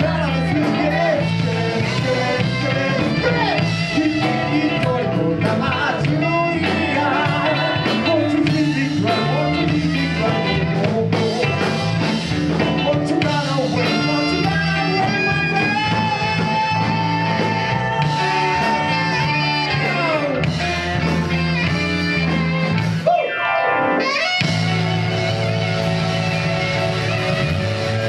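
Live band playing a rock song with guitar, with a long held note in the middle that slides down.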